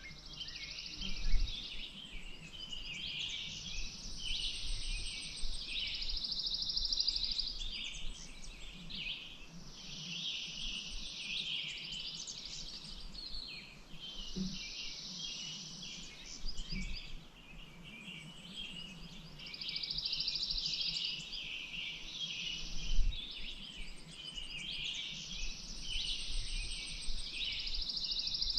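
Many birds singing together in a dense chorus of chirps, with a buzzy trill of two to three seconds coming back every five seconds or so. Two short low thumps stand out, one about a second in and one about three-quarters of the way through.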